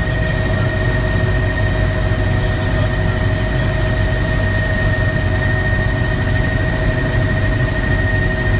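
Helicopter engine and rotor noise heard inside the cabin: a loud, steady low rumble with a constant high whine over it.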